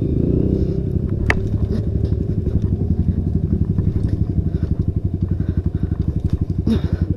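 Honda Tornado 250 single-cylinder four-stroke trail bike engine running at low revs with an even, rapid pulsing beat. A single sharp click sounds about a second in.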